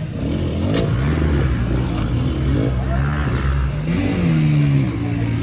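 Off-road racing engine running steadily, then revving up and back down about four seconds in.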